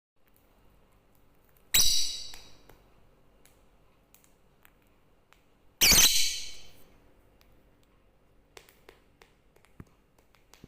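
Lovebird giving two loud, shrill screeching calls about four seconds apart, each fading over about a second, with a few faint clicks in the second half.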